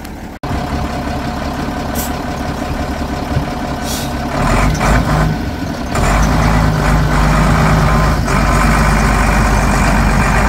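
Vehicle engine running under load during a back-and-forth manoeuvre on a rough track, getting louder about four seconds in and again about six seconds in.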